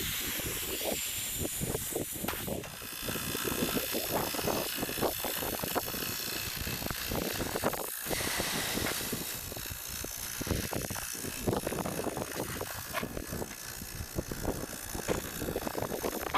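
Steady hiss of gas being blown through the repaired refrigerant lines to purge the system, with uneven low rumbling underneath.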